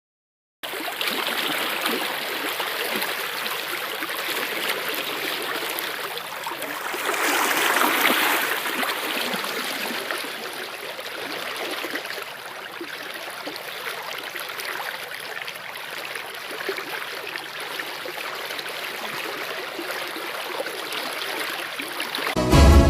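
A stream running steadily, with the water growing louder for a moment about eight seconds in.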